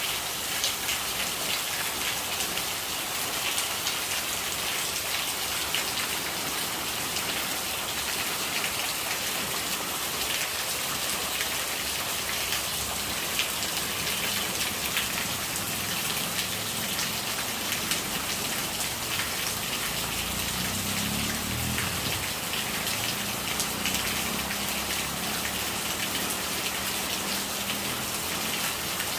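Steady rain falling on a surface, a dense patter of drops at an even level; a faint low rumble joins in the second half.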